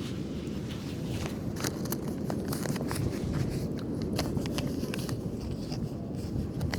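Sand being scraped, patted and crunched in short, irregular strokes, over a steady low background rumble.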